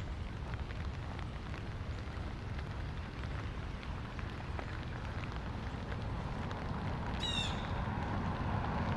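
Light rain falling with a steady hiss and scattered drip ticks. About seven seconds in, a bird gives a quick run of high, falling chirps. A car approaches, growing louder toward the end.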